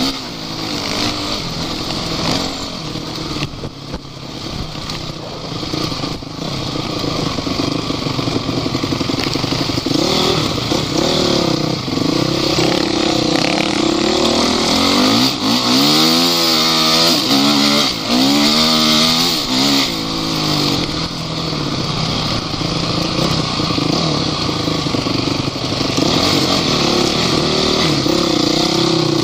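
Off-road vehicle engine running under load, its pitch rising and falling again and again as it is revved through the terrain, over a constant rushing noise.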